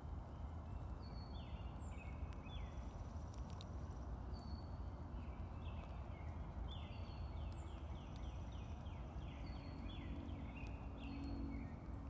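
Birds calling: short falling chirps recur, with a quick run of about ten notes near the middle, over a steady low background rumble.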